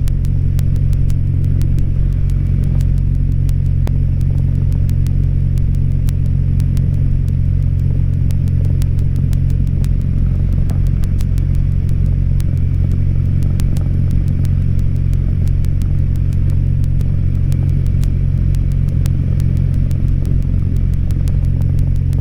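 Cessna 172's piston engine idling with a steady low drone.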